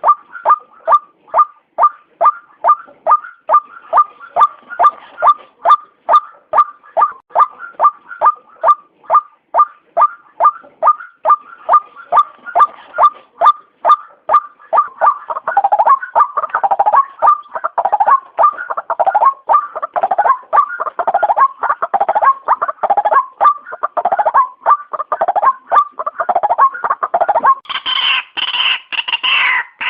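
White-breasted waterhen (ruak-ruak) calling: a long series of short, clipped notes at about two a second, growing denser and overlapping in the second half, with a louder, harsher burst of calling near the end. This is a lure call recording used to draw the birds in.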